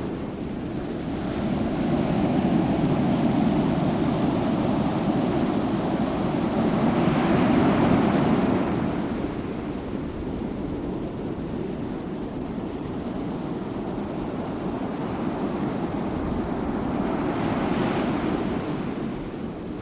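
Sea waves washing in, a steady rush that swells slowly twice: once to its loudest about eight seconds in, and again near the end.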